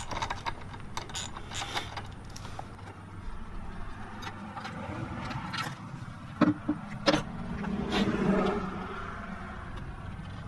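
A 1/4-inch socket ratchet clicking, with scattered knocks and clatter of engine cover parts being handled as the air filter assembly of a Briggs and Stratton engine is taken apart. The loudest knocks fall about two-thirds of the way through.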